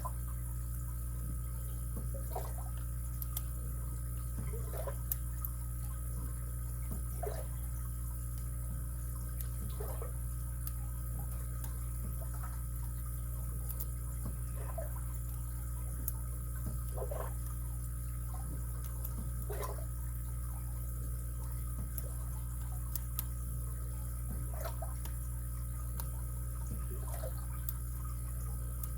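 Faint, scattered ticks of a lock pick and tension wrench working the spring-loaded pin tumblers of a padlock, over a steady background hum.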